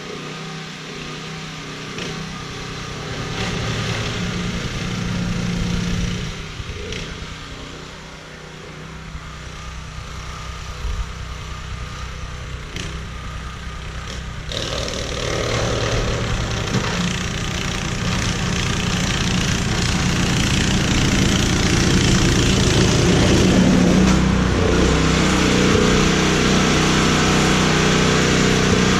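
An engine running steadily; about halfway through it grows louder, with more hiss and rush over the hum.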